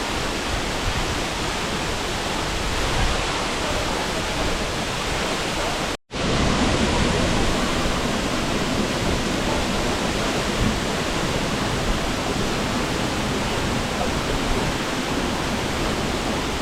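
Steady rushing of falling water from a waterfall. About six seconds in it cuts out for an instant and comes straight back.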